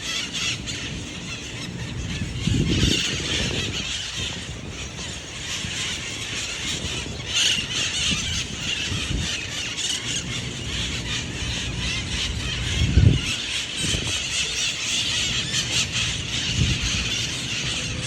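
A large flock of feral green parrots screeching and squawking continuously, many birds calling over one another.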